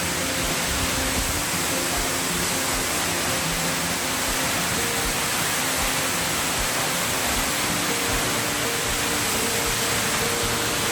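Steady roar of a large waterfall, the South Falls of Silver Creek, with soft background music of held notes over it.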